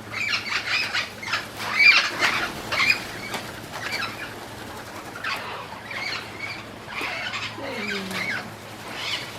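Captive Puerto Rican parrots flapping their wings as they fly back and forth across a flight cage, in irregular flurries. They are flushed by the sight of the keepers' catch net.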